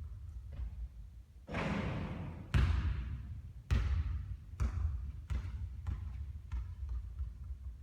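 A basketball bouncing on a court floor, about seven bounces that come closer together and grow fainter near the end.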